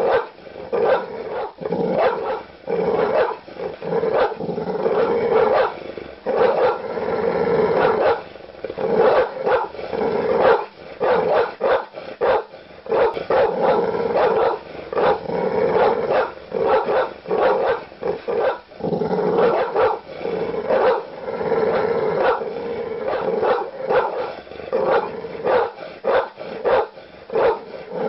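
Large dogs barking aggressively and continuously, deep barks coming in rapid overlapping bursts with growling between them.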